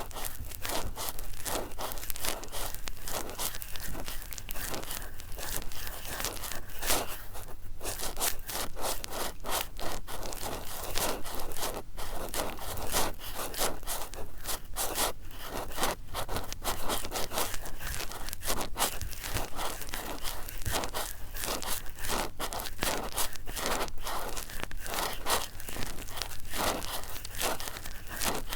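Cotton swabs rubbed and scraped in a dense, continuous run of quick, scratchy strokes.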